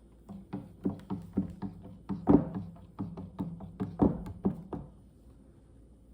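A utensil knocking against the side of a container while stirring a juice mixture, about three to four quick taps a second, stopping nearly five seconds in.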